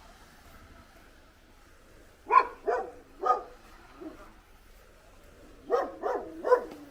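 A dog barking, three short barks about two seconds in and three more near the end.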